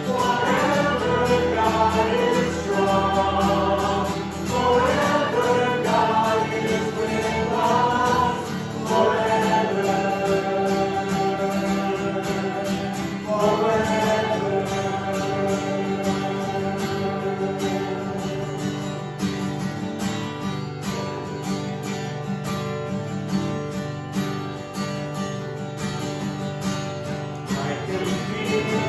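Worship song sung by a group of voices with instrumental accompaniment.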